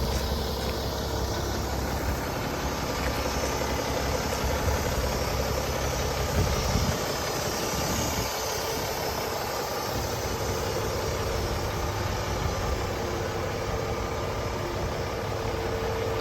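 Isuzu FVZ truck's diesel engine idling steadily, its low rumble easing off about eight seconds in.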